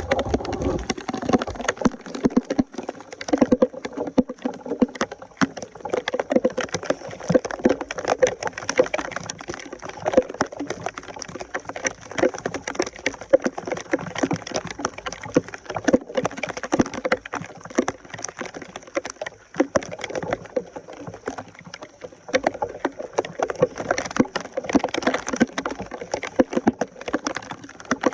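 Water sloshing and splashing, with a dense, irregular run of small clicks and knocks, as debris is worked loose in flooded water at a clogged drain.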